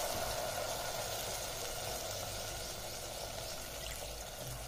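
Soft, steady sizzling of an onion-and-chilli tempering in hot oil in a steel pot, just after curd has been poured in, slowly dying down.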